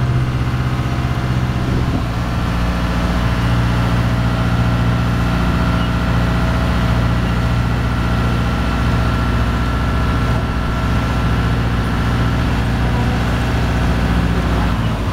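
Small passenger ferry's engine running steadily under way, a low droning hum with a faint high whine in the middle stretch.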